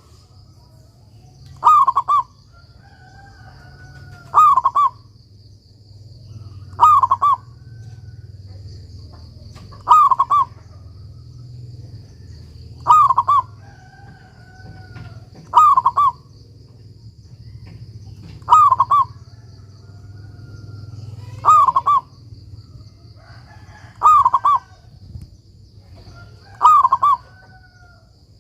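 Zebra dove (perkutut) in full song, cooing a short loud phrase that repeats about every two and a half to three seconds, around ten times. Fainter calls sit between the phrases, over a thin steady high whine.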